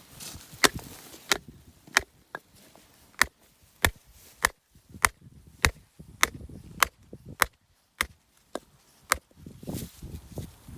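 Sharp, evenly paced hammer blows, about fourteen in all with a brief pause near the end: a mallet driving a metal infiltration ring into pasture soil.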